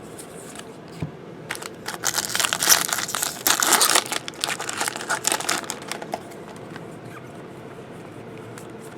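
Wrapper of a Bowman Jumbo baseball card pack being torn open and crinkled. It starts about a second and a half in, is loudest around three to four seconds in, and dies away by about six seconds.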